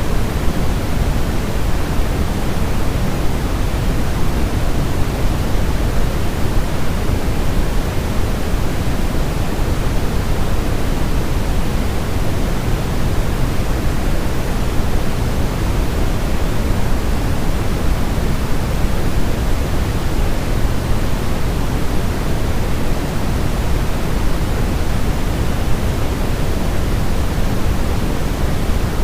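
Steady, unbroken sleep noise of the white-noise kind, a constant even hiss heavier in the low end, played to soothe a crying infant.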